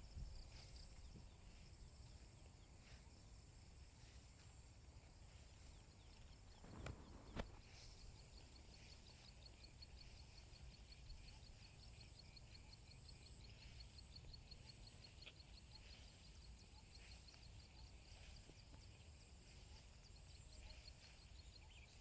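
Faint countryside insects: a steady high-pitched drone, joined about eight seconds in by a rapid, evenly pulsing trill that runs until near the end. A brief knock and a click come about seven seconds in.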